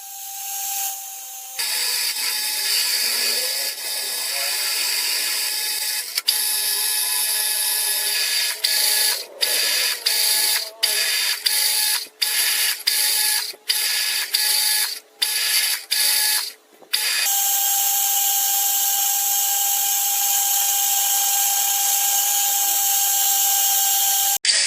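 Machine tool running with a steady high-pitched whine and hiss, cut off and restarting abruptly many times in the middle stretch.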